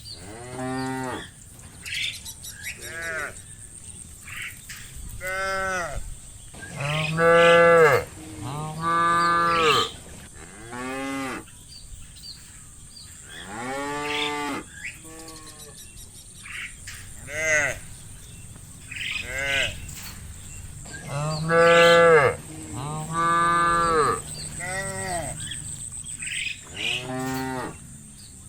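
Cattle mooing over and over: a string of short, arched moos about every second or two, some louder than others, with the loudest calls about a third of the way in and again about three quarters through.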